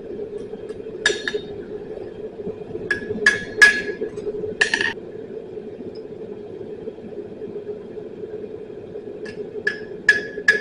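Blacksmith's hammer striking steel on an anvil, each blow ringing briefly: a few scattered strikes, a pause, then a quicker run of blows near the end. A steady hum runs underneath.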